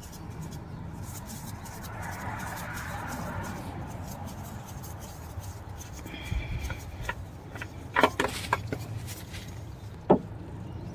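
Old oil filter being spun off by hand under a Ford 3.7 V6, with a brief rush of noise about two seconds in and several sharp clicks and knocks in the second half.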